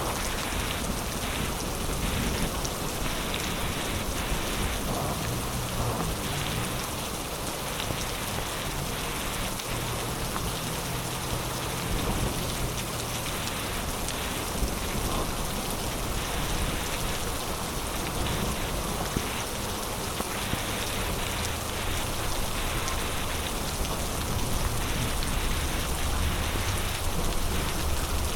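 Heavy rain falling steadily, a dense even hiss of rain on surfaces, with a low rumble underneath that swells a little near the end.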